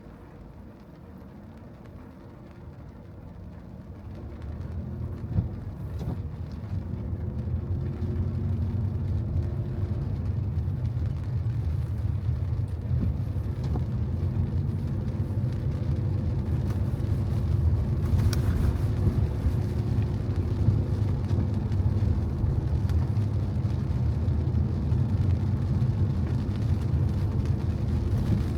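Car driving on wet streets: quiet at first, then the low rumble of engine and tyres grows over the first several seconds as the car gathers speed, and holds steady after that.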